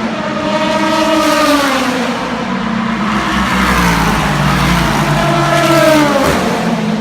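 Endurance race cars passing at speed one after another, each engine note dropping in pitch as the car goes by. The loudest car passes near the end.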